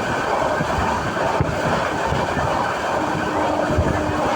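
Passenger train running at speed, heard from inside the coach: a steady rumble of wheels on the rails with scattered low knocks. A faint steady hum joins about three seconds in.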